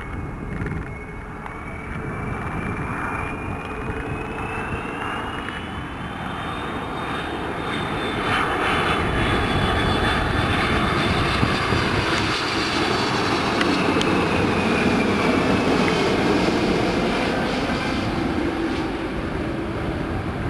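Airbus A330 jet airliner passing on its landing approach: its engines' roar grows louder to a peak about halfway through and then eases off, with a high whine over it that climbs and then falls in pitch.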